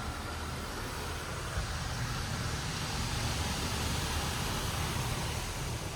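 Water Wizard 2.0 touchless car wash spraying spot-free rinse water over the car, a steady hiss of spray with a low rumble underneath.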